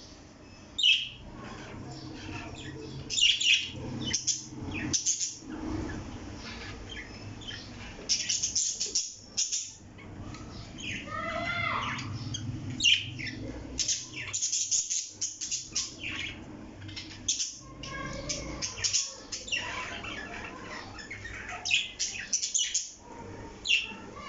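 Parrot giving many short, shrill squawks and chirps, with one longer call that bends in pitch around the middle.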